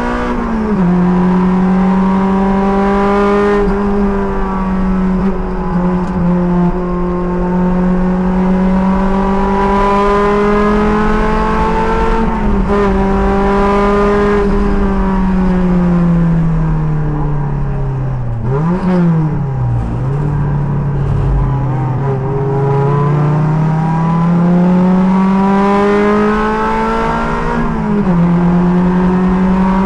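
Sports car's engine heard from the driver's helmet at racing speed, with steady wind and road noise. It shifts up just after the start and again around 12 s. The note then falls as the car slows, with quick rev blips of downshifts around 19 s, and climbs steadily under acceleration to another upshift near the end.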